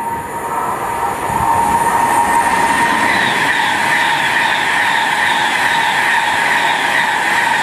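High-speed passenger train passing through a station at speed: a rising rush as it arrives, then a steady loud rush with a high whine and an evenly repeating clatter of wheels over the rails.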